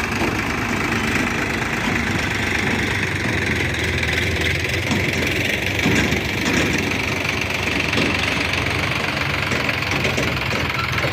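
Diesel engine running steadily at low revs.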